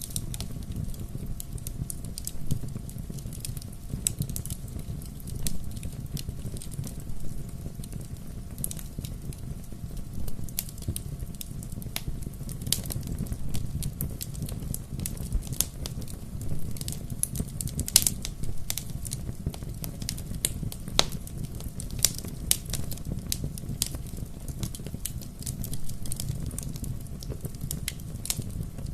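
Bonfire crackling: irregular sharp pops and snaps over a steady low noise of the burning fire, with one louder pop about eighteen seconds in.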